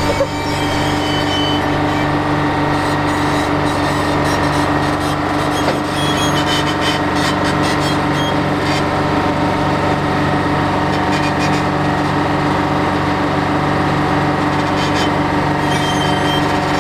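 The diesel engine of a Hopto H1900 hydraulic excavator running at a steady speed, with irregular higher-pitched rattling and scraping sounds coming and going over it in the middle and near the end.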